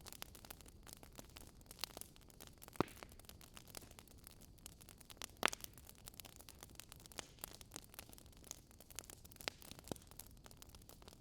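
Campfire crackling: a soft hiss with irregular small pops and snaps from burning wood, two of them louder, about three seconds in and again about halfway through.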